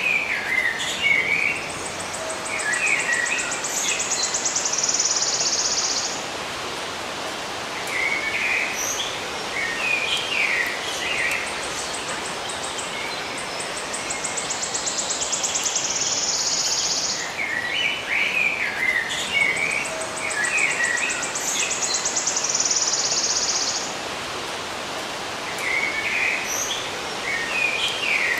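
Birds chirping in short scattered clusters over a steady background hiss, with a high, rapid pulsing trill that runs for a few seconds, twice.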